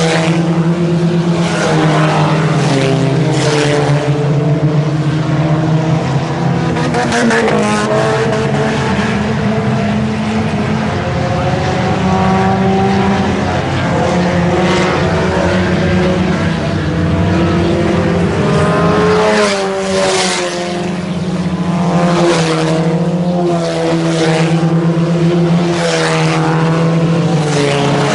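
A field of IMCA Sport Compact race cars running at racing speed, their four-cylinder engines revving together. Several engine notes overlap, their pitches rising and falling as the cars lift and accelerate through the turns and pass by.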